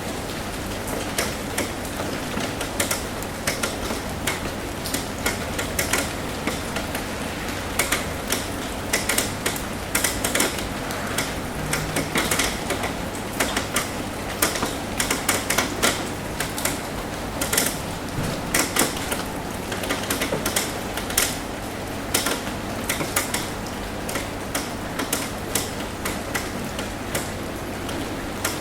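Rain tapping on a roof: a steady patter with many irregular, sharper drop taps that come thickest through the middle stretch.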